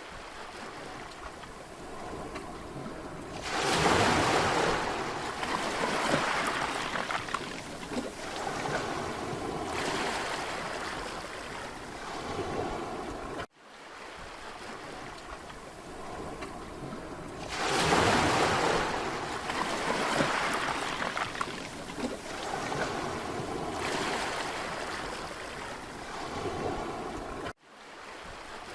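Mediterranean sea waves breaking on a beach. A larger wave crashes about four seconds in and another just past halfway, with smaller washes of surf between.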